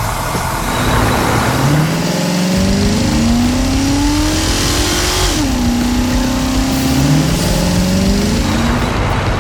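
Motor vehicle engine sound effect revving up: the pitch climbs for a few seconds, drops and holds briefly, then climbs again.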